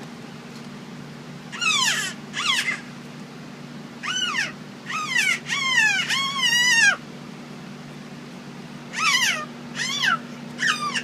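A young child's high-pitched squeals, each short cry sliding down in pitch, coming in three bunches of two to five. A steady low hum runs underneath.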